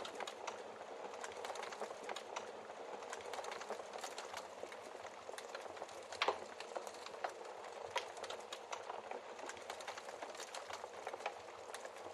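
Wood fire crackling steadily, with one louder pop from the logs about six seconds in.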